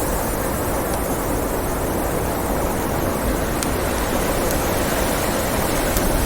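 Blizzard wind blowing steadily, with a few faint sharp pops from a crackling wood fire.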